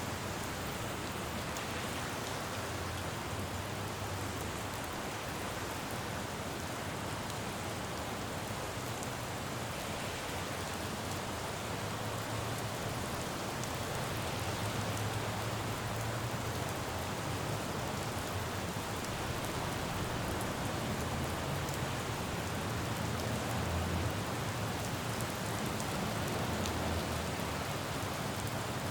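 Steady rain falling on a road, with a low rumble of passing traffic that swells and fades a few times.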